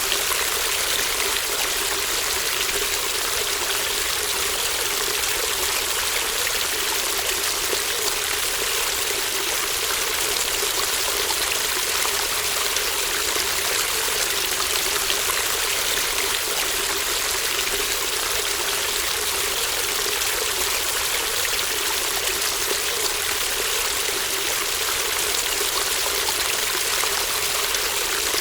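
Small babbling stream flowing steadily, an even rush and trickle of water with no change.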